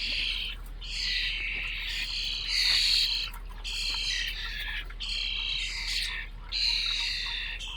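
Grackle nestlings giving raspy begging calls, a string of them, each under a second long, one after another with short gaps.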